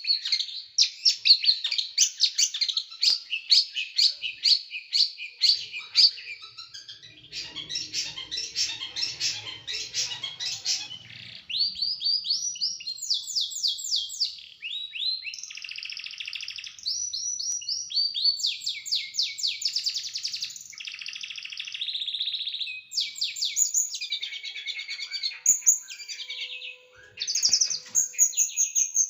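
Small songbird singing fast, rattling runs of sharp, high notes and quick down-slurred trills, the 'tembakan' bursts used as masteran training song. A faint low rumble sits under the song about a quarter of the way in.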